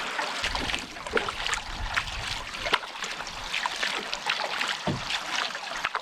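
Canoe paddling: water splashing and trickling around the hull and paddle, with many small irregular splashes and drips.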